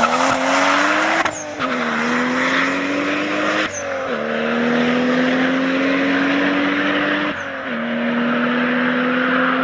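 Toyota Supra's inline-six accelerating hard through the gears. The engine's pitch climbs steadily in each gear and drops sharply at three upshifts: about a second in, near four seconds, and after seven seconds.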